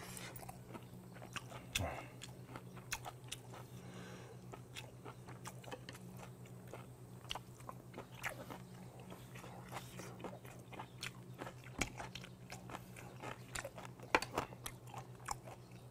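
Close-up chewing and crunching of a mouthful of spicy vinegar-dressed raw goby salad, with small sharp clicks of metal chopsticks against the plate, over a steady low hum.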